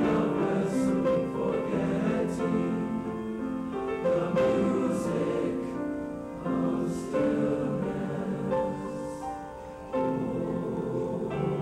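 A junior high school choir singing in several parts, holding long notes with crisp 's' consonants every second or two.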